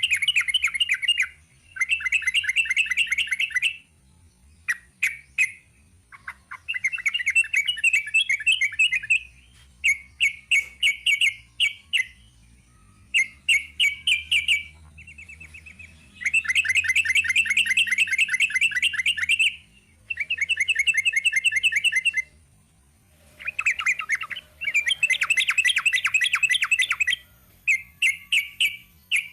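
Yellow-vented bulbul (trucukan) singing its rapid rolling 'ropel' song: fast trilled phrases of quickly repeated notes, each one to three seconds long, repeated over and over with short pauses between them.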